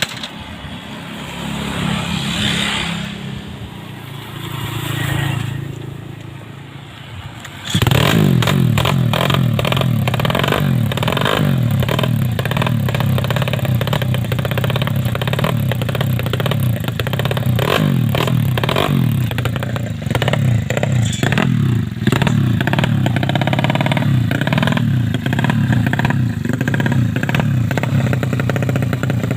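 A 130cc drag-bike motorcycle engine starts up suddenly about eight seconds in and then runs loudly, its pitch rising and falling as the throttle is worked. Before it starts there is only fainter sound that swells and fades.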